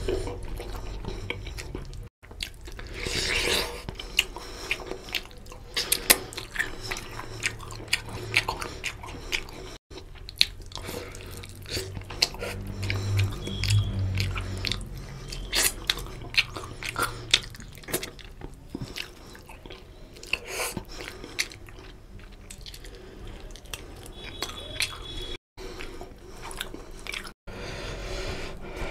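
Close-miked mukbang eating sounds: chewing and wet smacking of chicken curry and rice eaten by hand, with squishing as the fingers mix rice into the gravy. Many short, sharp clicks and smacks follow one another irregularly.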